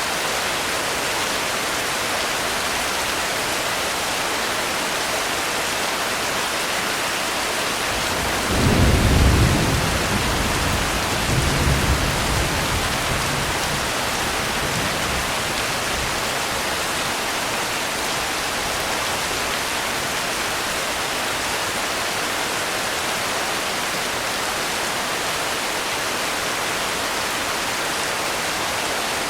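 Steady heavy rain, with a roll of thunder about eight seconds in that rumbles twice and fades out over several seconds.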